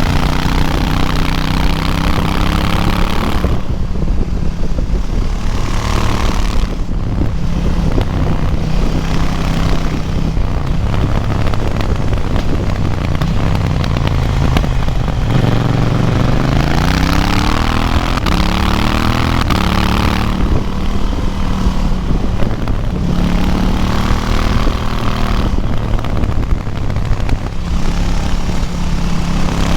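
KTM 790 Duke's parallel-twin engine under hard riding, heard from the bike itself: revs climb and drop again and again through the gears, falling low about halfway through, then climbing in one long sweep.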